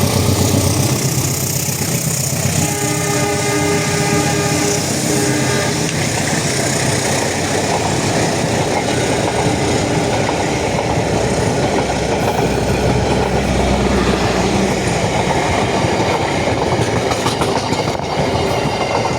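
Train running with a continuous rumble. Its horn sounds a chord of several notes for about three seconds, starting about two and a half seconds in.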